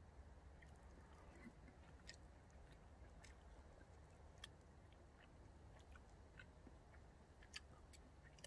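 Near silence: faint chewing of a mouthful of food, with a few small, sharp clicks scattered through it.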